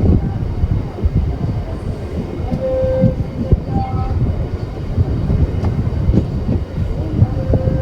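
Indian passenger train rolling into a station: a steady low rumble of the coaches, with repeated clatter and knocks from the wheels over the rail joints and a few brief squeals.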